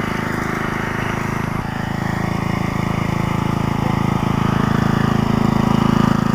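Small engine of a homemade mower truck running steadily under load with a fast, even firing beat. About a second and a half in its note changes, and it grows a little louder toward the end.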